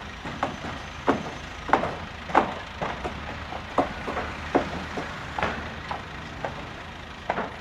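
Building-site noise: a run of sharp, irregular knocks, roughly one every half-second to second, over a steady low rumble.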